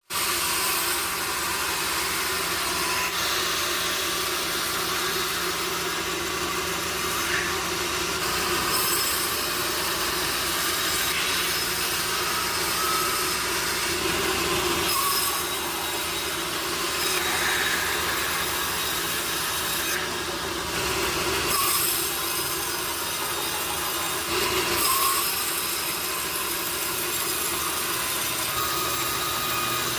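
Sawmill saw cutting through teak wood: a steady, continuous sawing noise with a constant machine hum underneath.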